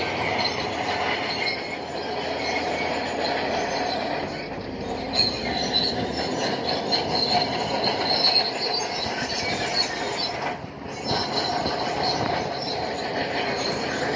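Shantui crawler bulldozer running, its steel tracks squealing steadily as it moves, over the engine.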